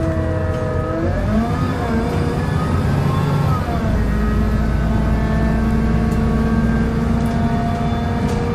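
Volvo B7L single-deck bus running with a groaning noise: pitched whining tones over a low rumble dip and rise in the first few seconds, then settle into a steady low drone about four seconds in.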